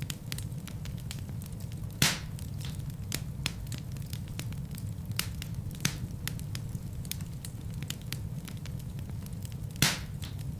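Wood fire in a fireplace crackling, with a steady low rumble of flame and frequent small irregular crackles. Two louder pops stand out, about two seconds in and near the end.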